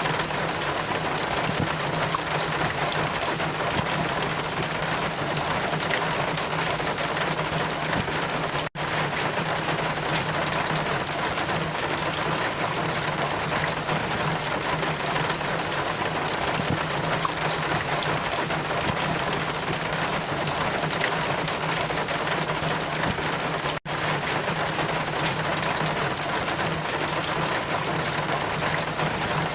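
Steady rain with wind, a dense even hiss with a low steady hum underneath. Two momentary dropouts break it, about 9 and 24 seconds in.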